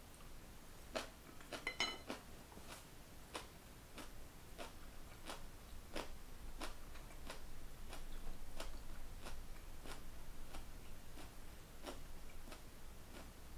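Wooden chopsticks set down on a ceramic plate with a few quick clinks, then close-up chewing of stir-fried beef brisket and mung bean sprouts in a steady rhythm, about three chews every two seconds, each a sharp click.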